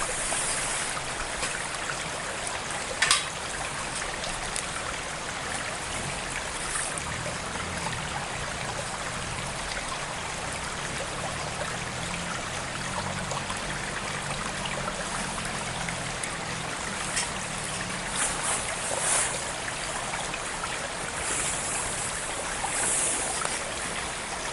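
Steady rush of a flowing stream, with a sharp click about three seconds in and a few short, high scraping strokes of a ferrocerium fire-starter rod being struck for sparks, mostly in the second half.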